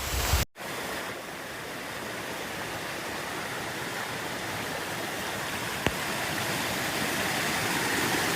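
Steady rush of falling water, slowly growing a little louder. It follows a brief dropout about half a second in, and there is a single click near six seconds.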